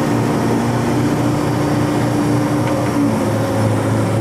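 Heavy diesel engine of a log stacker running steadily, heard from inside the machine as it drives. A steady drone, with a higher tone that drops out about three seconds in.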